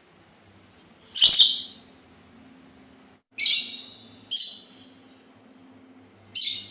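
A labet Sultan songbird calling: four short, sharp calls a second or two apart, the first the loudest.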